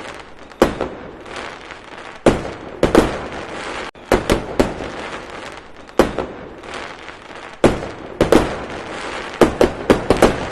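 Fireworks going off: a dozen or so sharp bangs at irregular intervals, several in quick clusters, over a continuous hiss.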